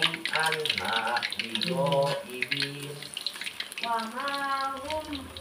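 Battered tempe frying in hot oil in a wok, with a steady crackling sizzle, while a woman's voice sings over it in long, gliding notes.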